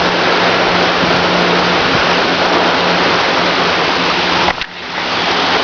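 Heavy rain pouring down during a thunderstorm: a loud, steady hiss that dips briefly about four and a half seconds in before coming back.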